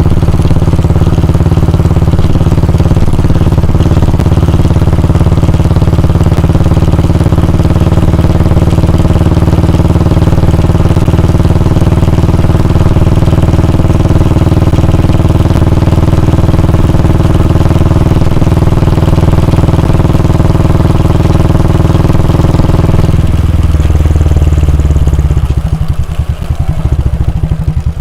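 Royal Enfield Bullet 350's 349 cc air-cooled single-cylinder engine and exhaust running steadily. About 23 seconds in, the sound thins out, and near the end it breaks into slower, separate beats.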